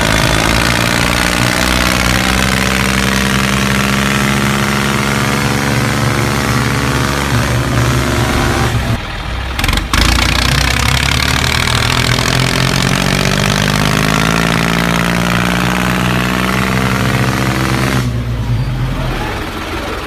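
Tractor engine sound effect running, its pitch sagging and then climbing again. It breaks off about nine seconds in, starts again a second later with the same dip and rise, and stops a couple of seconds before the end.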